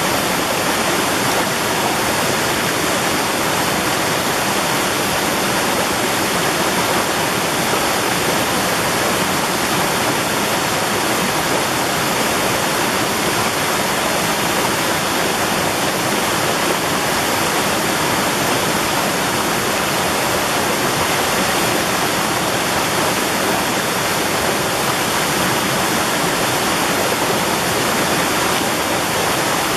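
Mountain valley stream, water rushing in a steady, even, unbroken stream.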